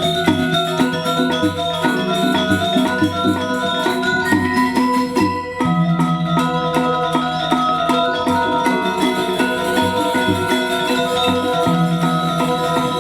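Balinese gamelan playing Legong music: bronze metallophones ringing in fast, dense interlocking figures over low sustained tones, with the ensemble thinning briefly about five seconds in before carrying on.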